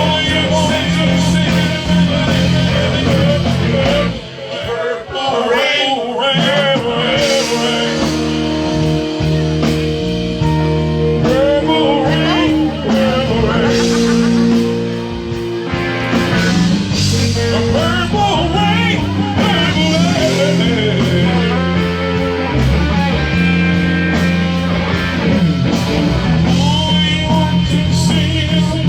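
Live blues-rock band playing: electric guitar lines over bass and drums.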